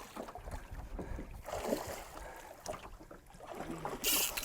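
Fishing boat's engine running with a steady low rumble under wind and water noise, and a short hiss near the end.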